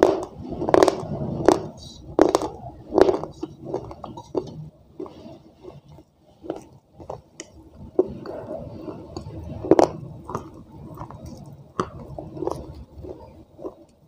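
Close-up chewing of soaked clay from a broken clay pot: wet crunching and squishing bites. The crunches come strong and regular, about every three-quarters of a second at first, then go softer and more irregular, with one sharp loud crunch near the ten-second mark.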